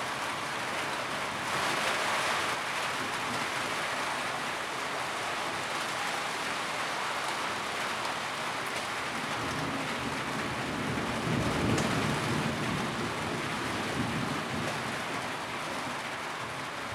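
Steady rain falling on a tin roof, a constant patter, swelling briefly about two seconds in, with a low rumble near the middle.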